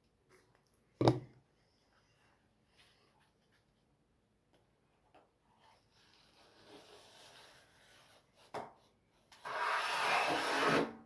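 A sharp knock, then hand rubbing and scraping that grows louder over the last two seconds: excess silicone sealant being wiped and scraped away at the back of a toilet.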